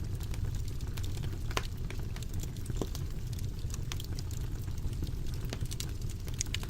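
Fire crackling in a fireplace: irregular sharp pops and snaps, a few a second, over a steady low rumble of the flames.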